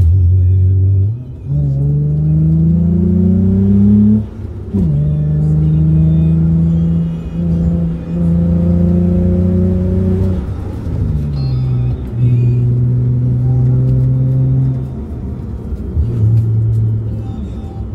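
Hyundai Tiburon V6 engine with the stock exhaust, heard from inside the cabin, pulling through the gears of a manual gearbox. The engine note rises under throttle, dips and drops in pitch at each gear change, about five times, and holds steady in between.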